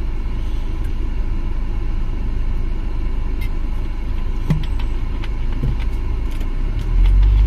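Steady low rumble of a car's running engine, heard inside the cabin, with a few faint clicks. The rumble swells louder near the end.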